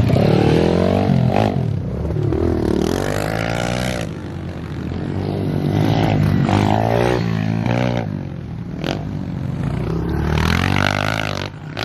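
Pit bike engine revving hard, its pitch climbing and dropping again and again as the rider works the throttle over the track.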